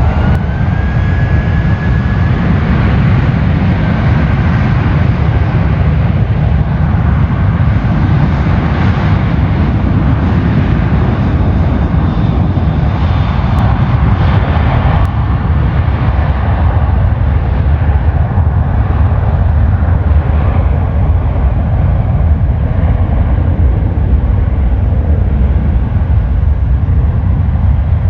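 Jet airliner engines at high power: a loud, steady low rumble with a thin whine that rises in pitch at the start and then holds.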